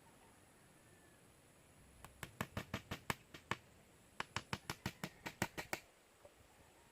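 Two quick runs of sharp knocks from a tool striking wood, about six a second: the first about two seconds in, the second about four seconds in.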